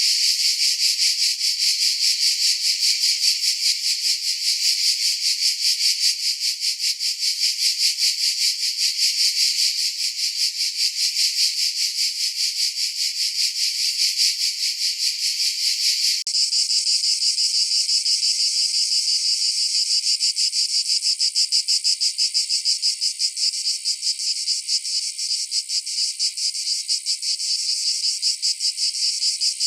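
Cicadas singing: a loud, continuous high buzz made of rapid pulses. About halfway through the buzz changes abruptly to a slightly different, sharper tone.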